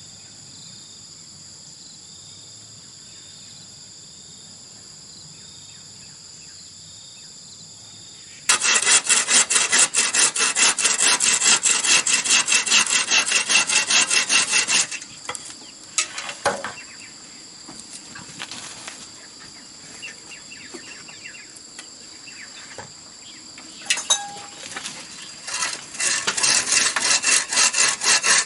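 Crickets trilling steadily for the first several seconds. Then a hand tool works bamboo in rapid, even rasping strokes for about six seconds, followed by scattered knocks and rubs of the bamboo, and the fast strokes start again near the end.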